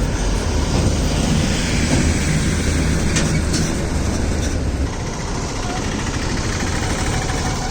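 Heavily loaded truck's engine running as the truck creeps along, a steady low rumble that eases about five seconds in, with a few knocks and rattles around the middle.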